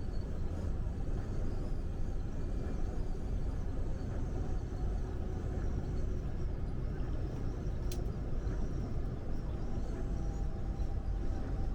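Steady engine and road rumble of a truck driving on the highway, with one sharp click about eight seconds in.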